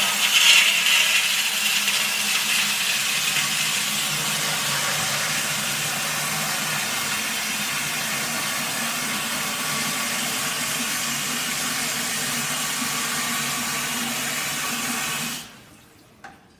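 Water running steadily from a tap into a bucket of white vinegar, filling the flushing solution. It cuts off suddenly about fifteen seconds in, when the water is shut off.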